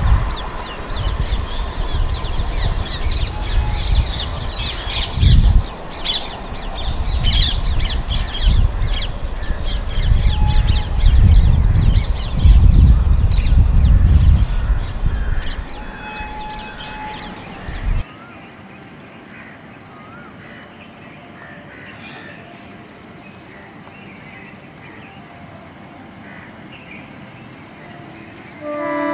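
Passenger train coaches rumbling and clattering over the rails as the train runs away, the rumble dying down. After a cut comes quiet outdoor background with birds calling. Near the end a diesel locomotive's multi-tone horn starts up.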